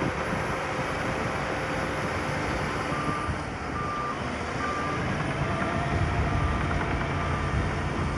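A heavy construction vehicle's reversing alarm beeping steadily, about seven short beeps starting about three seconds in, over the low running of its engine.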